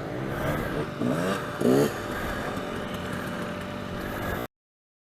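Dirt bike engine running, with two quick revs rising in pitch about a second and a half in, the second the loudest. The sound cuts off suddenly near the end.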